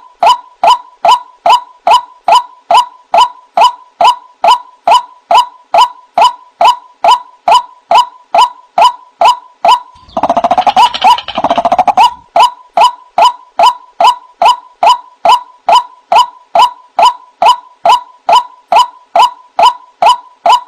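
White-breasted waterhen (ruak-ruak) call, a short 'wak' note repeated in a strict rhythm about twice a second. About halfway through, a denser, noisier stretch of calling lasts about two seconds before the steady notes resume.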